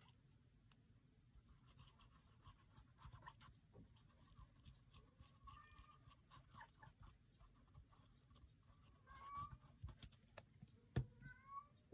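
A cat meowing faintly, three short cries spread through the second half, over soft paper handling and small clicks.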